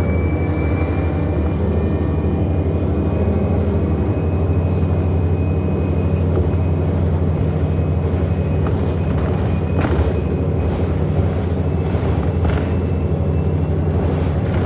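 Inside a 2008 Orion NG hybrid-electric bus under way: a steady low drone with a thin high motor whine that rises slightly in pitch over the first few seconds. A couple of brief knocks or rattles come through near the ten- and twelve-second marks.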